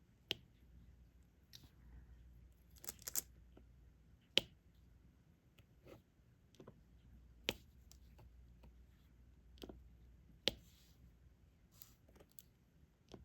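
Diamond painting stylus picking up resin drills and pressing them one at a time onto the sticky canvas: about a dozen light, sharp clicks at irregular intervals, with a brief plastic rustle now and then.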